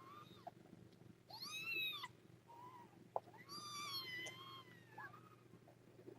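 Very young kittens mewing: about four high, thin cries that rise and fall, the loudest a little over a second in and the longest near the end. A short sharp click comes about three seconds in.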